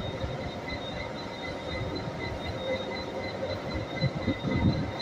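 Irish Rail 201 class diesel-electric locomotive running at the platform: a steady engine rumble with a faint high whine over it, and a few low knocks about four and a half seconds in.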